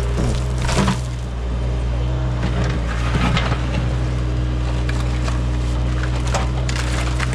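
Excavator's diesel engine running steadily while the bucket digs, with scattered crunches and cracks as it breaks through dirt and buried debris.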